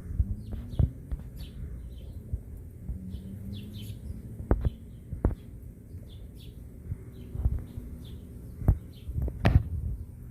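Downy woodpecker pecking at a hummingbird feeder: irregular sharp taps, several over a few seconds, the loudest near the end, with faint bird chirps behind.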